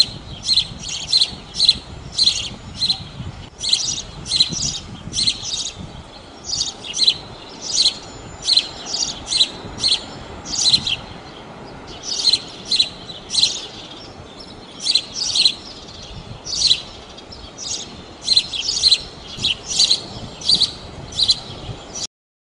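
A bird chirping over and over, short sharp calls about two a second in runs with brief pauses, over a faint background hiss. It stops abruptly near the end.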